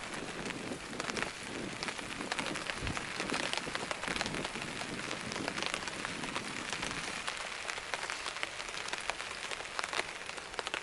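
Steady heavy rain, with many individual drops ticking sharply close by.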